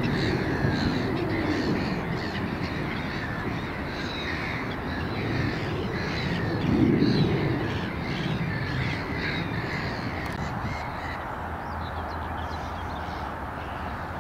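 Birds calling over and over in short, harsh calls, over a steady low rumble of distant road traffic.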